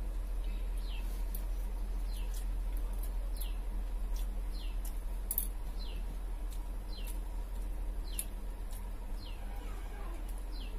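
A bird repeating a short, falling chirp a little more than once a second, over a steady low hum.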